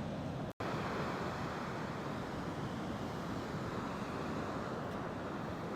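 Ocean surf washing in, a steady rush mixed with wind on the microphone. The sound cuts out for an instant about half a second in.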